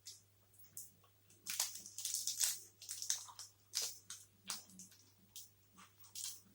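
Close-up mouth sounds of someone chewing a soft, sticky Gainomax blueberry protein bar: irregular wet, squishy smacks, several a second with short pauses between.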